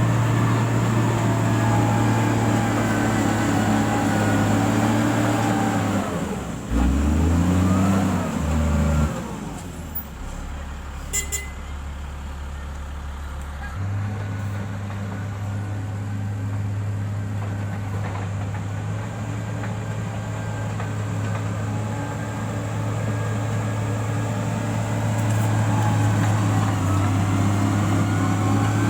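Heavy road-construction machine's engine running steadily. About six seconds in its note wavers with gliding tones, then drops lower for a few seconds before rising back to its earlier steady speed. A brief sharp sound comes about eleven seconds in.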